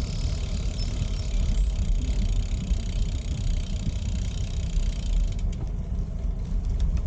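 Wind buffeting the microphone of a camera on a moving bicycle, a steady fluctuating low rumble, with a few faint ticks near the end.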